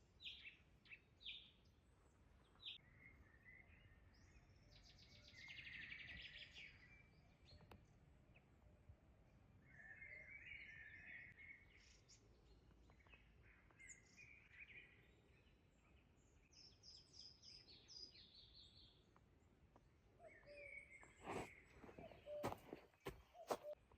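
Faint birdsong: scattered chirps and several short trills over quiet background hiss. A few sharp cracks come close together near the end.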